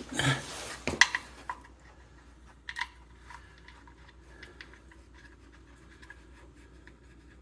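Light metallic clinks and scrapes of hand tools and parts being handled. There are a few sharper clicks in the first three seconds, then only faint ticking.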